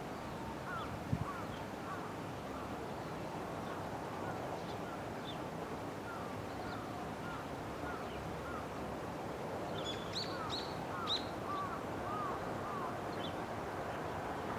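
Birds calling over a steady outdoor background hiss: a run of short, arching calls repeating several times a second, with a few higher chirps about ten seconds in and a brief knock about a second in.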